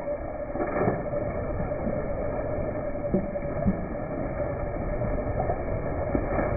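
Large 6x6 RC trail truck running on battery-electric drive, with a steady whine and a few light knocks.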